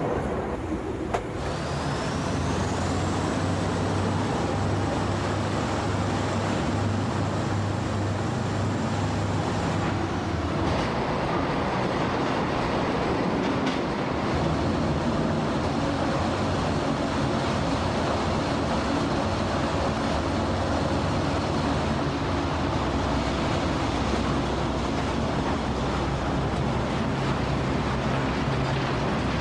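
The Lézard Rouge's wooden carriages rumbling steadily along the track through a tunnel. A thin high whine rises and then holds through the first ten seconds or so.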